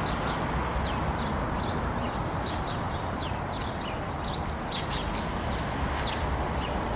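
Small birds chirping, many short high calls that slide downward, repeated irregularly over a steady low background rumble.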